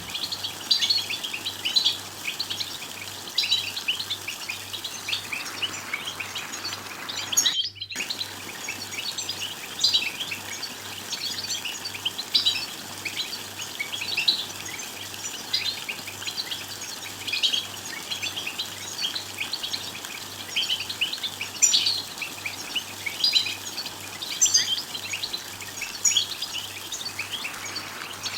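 European goldfinches chattering: a dense, continuous stream of short, quick chirps and twitters. The sound drops out completely for a moment about eight seconds in.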